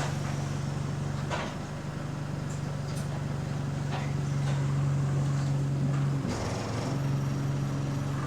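Interior sound of bus GAL 761 in motion: a steady low hum from the bus's drivetrain and air-conditioning, with a few sharp rattles. The hum briefly changes about six seconds in, then settles again.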